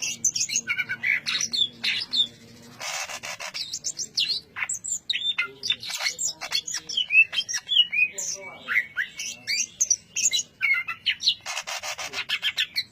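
Cucak ijo (leafbird) singing non-stop in the dense 'ngentrok' style: a rapid run of sharp whistles and chirps, broken by a harsh rasping phrase about three seconds in and another near the end.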